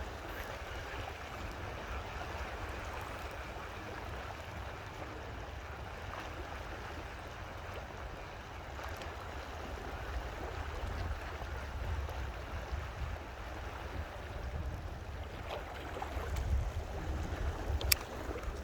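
Steady rush of running water, with wind rumbling on the microphone and a single sharp click near the end.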